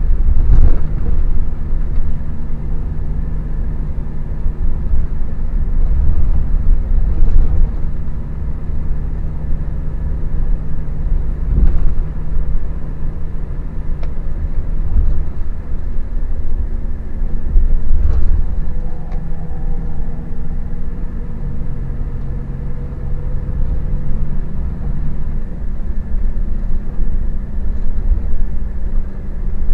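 Scania K400IB coach's diesel engine running on the move, a deep, heavy rumble whose engine note shifts in pitch a few times, with a few brief knocks.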